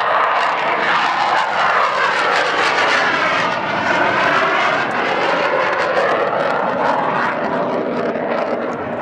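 Jet engines of Blue Angels F/A-18 Hornets flying past, a loud, continuous jet noise that sweeps in pitch as the aircraft pass.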